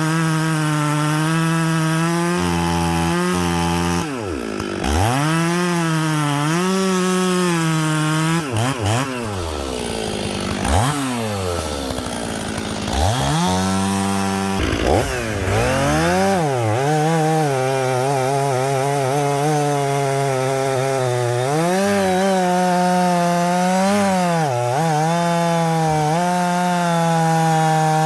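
Two-stroke chainsaw running and cutting wood. Its engine pitch sags and recovers over and over as the chain takes load, dropping deeply several times in the middle, then holds steadier at high speed near the end.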